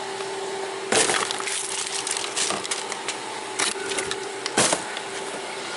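Trash being gathered out of a car: plastic cups and wrappers crinkling and rustling in several short bursts, the loudest about a second in and near the middle.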